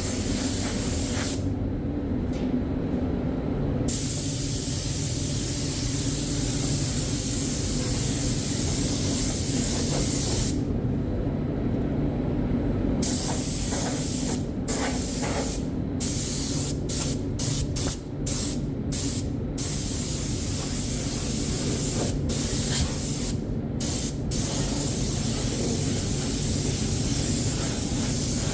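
Air spray gun hissing as primer is sprayed. The hiss stops for a couple of seconds twice, then comes in short on-off bursts for about ten seconds as the trigger is worked. A steady low hum runs underneath.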